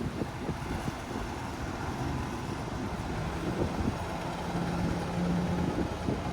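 Large vehicle engine running, with a steady low hum coming in about three seconds in, over rumbling wind on the microphone.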